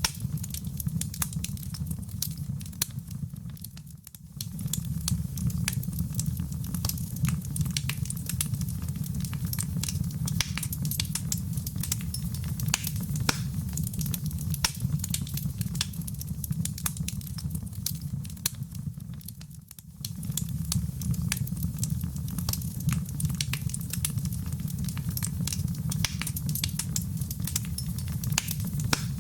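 Wood fire crackling, with many small sharp snaps over a steady low rumble of flames. The sound briefly fades and comes back twice, about four seconds in and again about twenty seconds in.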